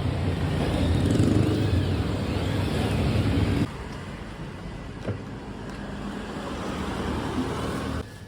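Road vehicle noise: a steady low rumble that drops suddenly to a quieter level about a third of the way through.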